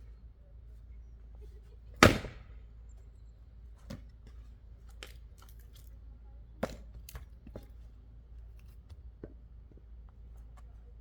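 An axe chops into wood once, about two seconds in, with a sharp crack that rings out briefly. A series of lighter knocks and clatters of wood follows.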